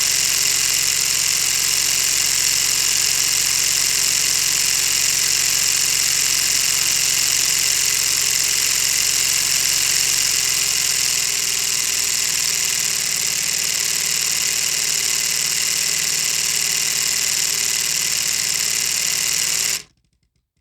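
Lego model V-16 engine running: the plastic crankshaft, pistons and gearing turning and clattering in a steady, busy rattle. The tone shifts slightly about eleven seconds in, and the sound cuts off suddenly near the end.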